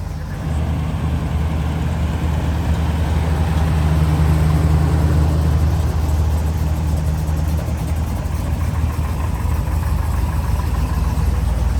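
Vehicle engine running steadily, a low even drone that gets a little louder about half a second in.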